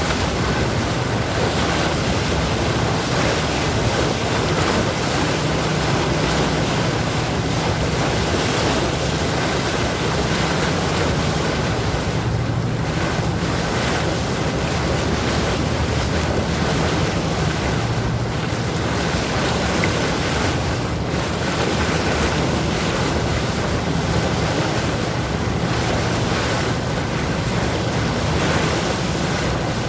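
Sea waves washing steadily, with wind buffeting the microphone and a low, steady hum underneath.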